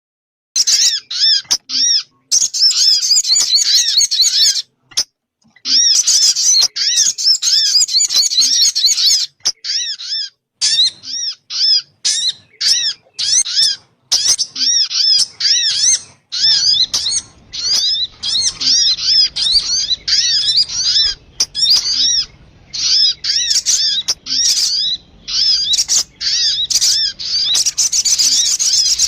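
Sogun bird calls used as a lure: fast runs of repeated high, arching chirps lasting several seconds each, broken by short pauses. A faint low hum joins about halfway through.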